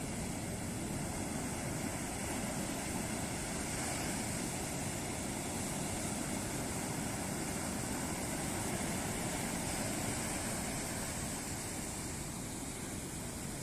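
Ocean surf on a beach: a steady wash of breaking waves that swells a little through the middle and eases near the end.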